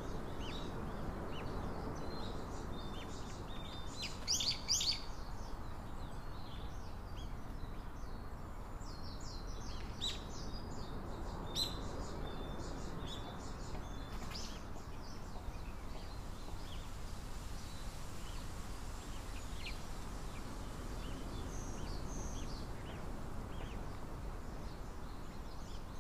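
Birds chirping in scattered short, high calls over a steady background hiss, with a busier flurry of chirps about four seconds in and again around ten to fourteen seconds in.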